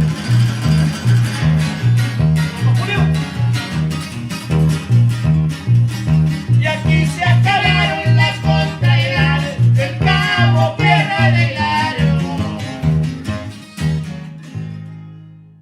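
Live norteño band music: strummed guitars over a bass walking back and forth between two notes in a steady beat, with a wavering lead melody in the middle. The song ends near the end, the last chord ringing out and fading.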